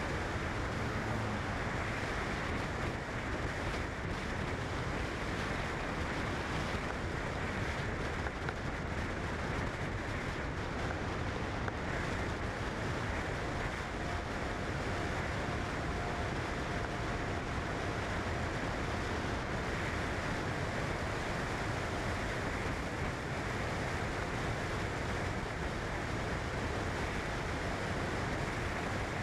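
Steady, even rushing noise with no surges or breaks, and a faint thin tone for several seconds around the middle.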